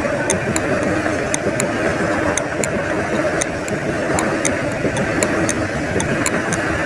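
Steady rumble of a train carriage in motion, with a clock ticking quickly over it as a countdown timer.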